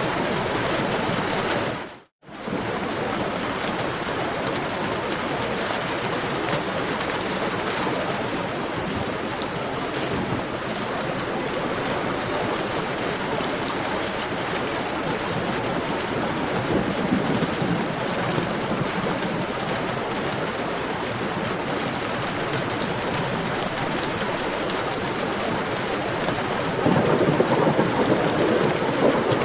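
Heavy rain falling in a steady hiss, with thunder rumbling around the middle and again more loudly near the end. The sound cuts out for a moment about two seconds in, then the rain comes back.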